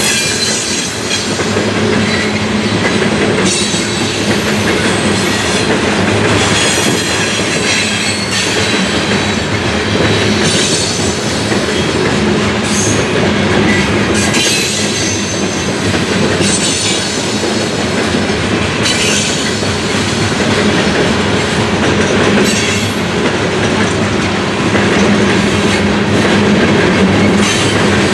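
Freight cars of a CSX coal train rolling past, steel wheels clattering on the rails with repeated high-pitched wheel squeal over a steady rumble.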